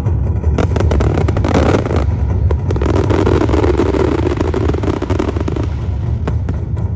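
Fireworks going off: a continuous low rumble of bursts, with rapid sharp crackles through the first two or three seconds, then a steadier dense rushing noise.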